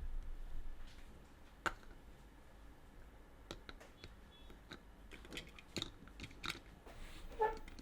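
Plastic toy parts being handled: scattered faint clicks and taps, one early and then a run of several over a few seconds.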